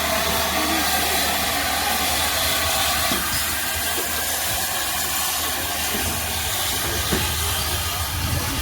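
Great Western 2-8-0 tank steam locomotive hissing steam, a steady hiss with a low rumble underneath and a few faint knocks.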